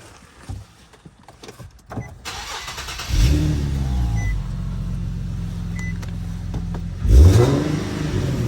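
Infiniti G37's 3.7-litre V6 with high-flow cats starting about three seconds in, after a few light clicks and knocks, then idling steadily and revved once near the end. It is being run to check the exhaust after custom gaskets were fitted between the manifolds and the high-flow cats to cure an exhaust leak.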